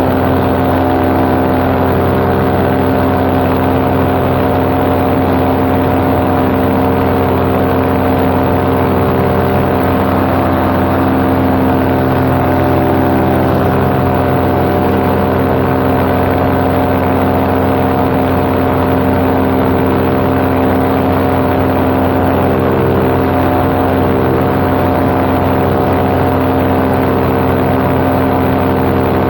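Paramotor engine and propeller running at a steady cruise power in flight, a loud, even drone with no change in pitch.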